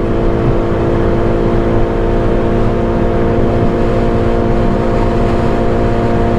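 Honda K24 four-cylinder engine of a K24-swapped Mini pulling steadily at high revs in sixth gear at close to 230 km/h, heard from inside the car. The engine note holds an even pitch throughout.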